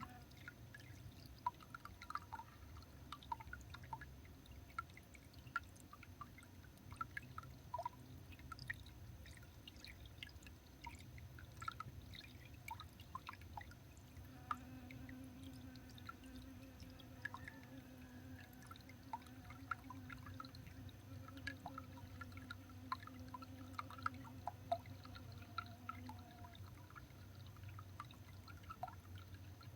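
Faint outdoor ambience: many small irregular ticks and taps, drip-like, over a low steady hum.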